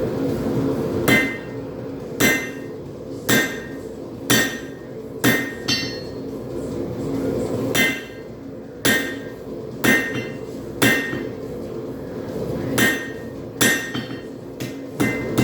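Hammer blows on a hot railroad spike on an anvil, roughly one a second with a couple of short pauses, each strike giving a short metallic ring. A steady low drone runs underneath.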